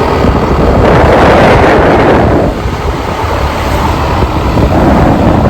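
Heavy wind buffeting the microphone of a rider on the back of a moving motorcycle, with engine and road noise beneath. It eases briefly about two and a half seconds in.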